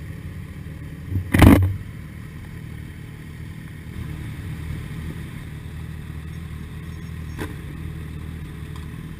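Motorcycle engine running steadily at low revs, with a loud thump about a second and a half in and a faint click near the end.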